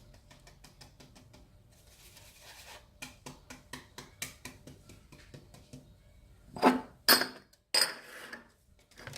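Kitchen utensils handled against a mixing bowl: a run of light, quick taps and a brief rubbing, then a few loud clanks a little after two-thirds of the way through.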